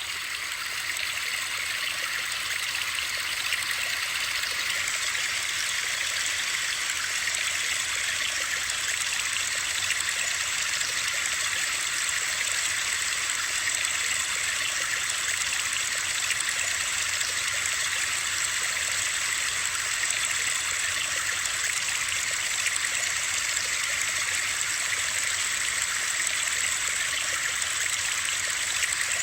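Steady, even hiss of a white-noise sleep track with a running-water character, most of its energy high-pitched and little low rumble.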